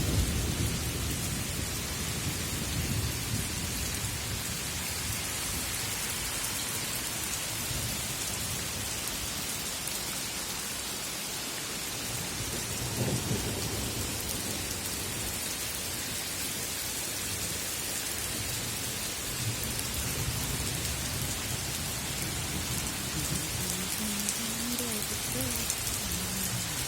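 Heavy rain pouring steadily, a dense hiss of falling water, with low rumbling that comes and goes. A faint wavering tone rises and falls near the end.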